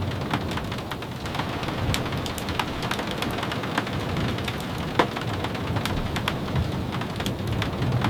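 Steady rain, with many sharp drop taps scattered through it and a low rumble underneath. One louder tap stands out about five seconds in.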